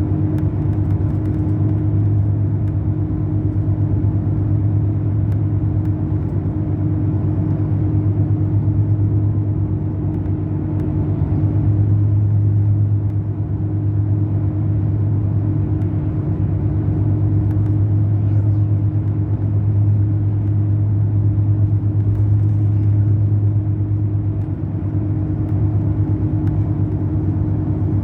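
Mercedes-Benz O500 RSD BlueTec5 coach's diesel engine running steadily under way, a constant low drone with a steady hum above it.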